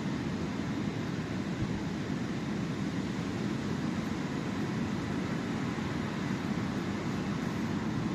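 Sea waves on the shore making a steady, even rushing noise with a low rumble.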